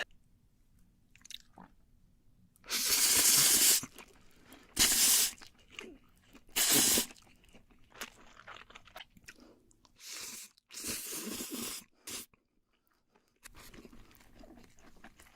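Close-up eating sounds of a person eating spicy instant noodles: several loud bursts about a second long, with quiet gaps between.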